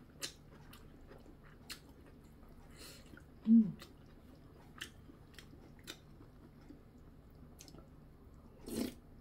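Close-up eating sounds: soft chewing and small mouth and utensil clicks as chopsticks and a spoon work in a bowl of kimchi stew, then a louder bite of soupy food near the end. About three and a half seconds in, a short hum falling in pitch is the loudest sound.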